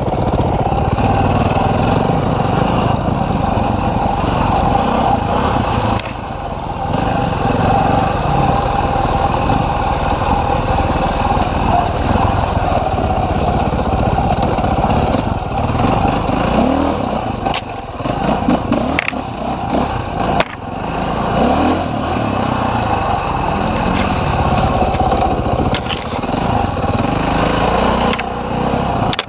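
Dirt bike engine running on a trail, the throttle rising and falling, with a few sharp knocks along the way.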